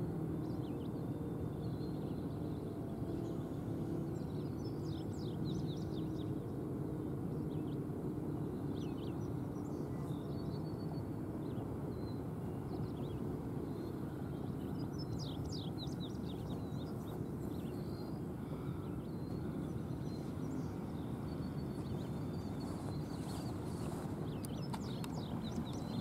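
Small birds chirping on and off over a steady low outdoor background rumble.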